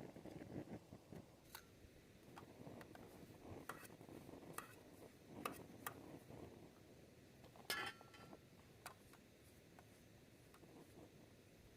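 Faint handling sounds: a low rustle with scattered light clicks and clinks at irregular intervals, one clink a little after the middle ringing briefly.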